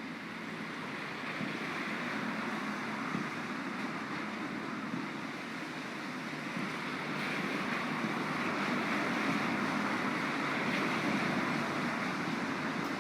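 Steady rush of rain, slowly growing a little louder, with a few faint pops.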